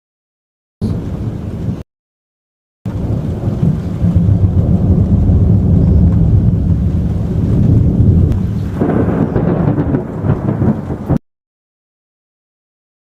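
Thunder rumbling long and low from close lightning, swelling for several seconds before the sound cuts off abruptly. The audio drops to dead silence in short gaps near the start and again from about eleven seconds in.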